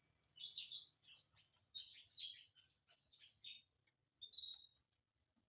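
White-rumped shama (murai batu) singing: a fast run of varied high notes, jumping in pitch, for about three seconds, then one short note a second later.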